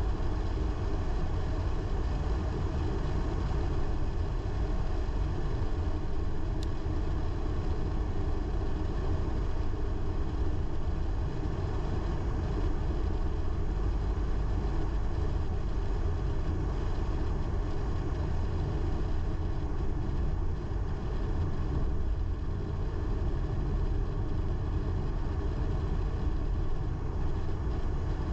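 Car driving at a steady speed: an even, low engine and road rumble with no change in pace, and a single faint click about six and a half seconds in.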